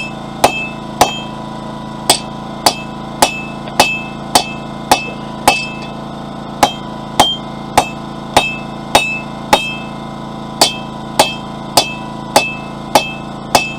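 Forging hammer striking hot steel bar on an anvil, about two blows a second in runs of four to six with short pauses, each blow ringing briefly. A steady hum runs underneath.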